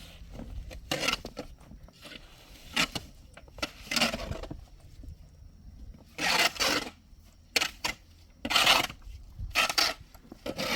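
A series of irregular scraping strokes, each lasting under a second, with short pauses between them.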